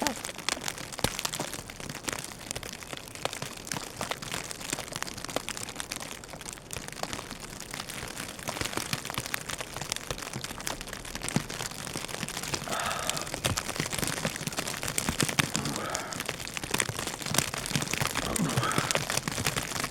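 Steady crackling patter of wind-driven snow hitting the microphone in a blizzard, made of many fine ticks with no pause.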